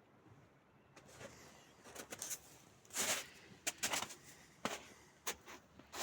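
Quiet for about a second, then a string of irregular clicks and knocks, with a short rustling noise about three seconds in.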